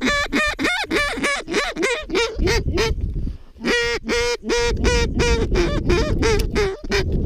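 Canada goose call blown in a rapid run of loud honks and clucks, calling to a passing flock of honkers to turn it back to the decoys. Wind rumble on the microphone sits under the calling in places.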